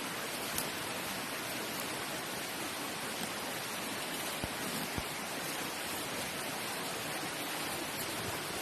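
Steady rush of flowing water, a waterfall or stream, with a few faint clicks.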